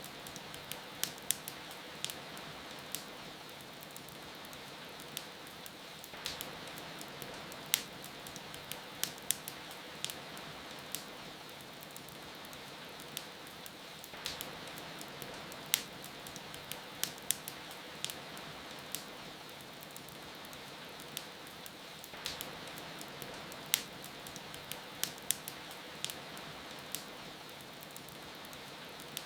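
Steady rain hiss with a wood fire crackling through it: sharp, irregular pops and snaps, sometimes several in quick succession.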